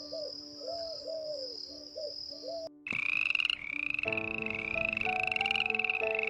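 Repeated animal calls in two takes. First comes a series of short arched calls over a steady high whine. After a sudden cut comes a louder, fast-pulsed trilling call that repeats about two to three times a second, with background music joining about four seconds in.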